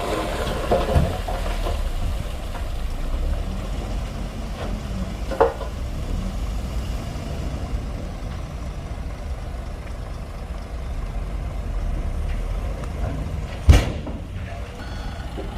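Shantui DH17C2 bulldozer's diesel engine running steadily, with a sharp crack about five seconds in and a loud thump near the end. A reversing alarm starts beeping just before the end.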